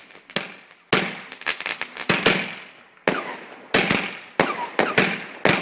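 New Year's fireworks going off: a series of sharp bangs and cracks, some single and some in quick bunches, a shot every half second or so.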